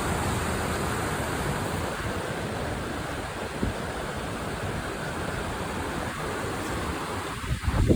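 Creek water flowing: a steady, even rush.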